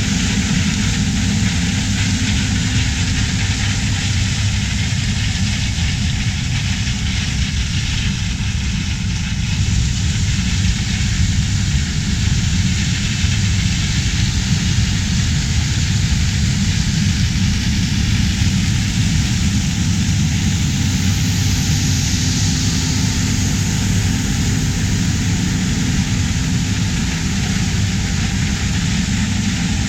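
Heavy farm machinery engines running steadily during corn harvest: a continuous deep rumble with a broad hiss over it.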